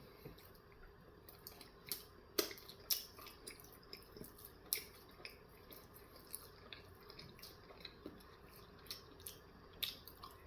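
Close-miked chewing: scattered wet mouth clicks and smacks, with two louder ones about two and a half and three seconds in.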